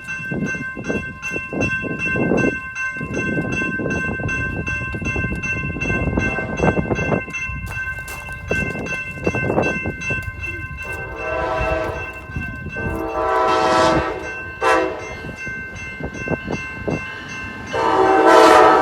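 Approaching passenger train led by a Siemens SC44 Charger diesel locomotive: rail rumble with a stream of wheel clicks, then the locomotive's horn sounding a series of blasts, two long ones, a short one, and a long one starting near the end.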